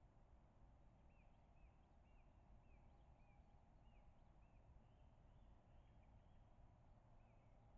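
Near silence, with a faint steady run of short chirps from a bird calling repeatedly.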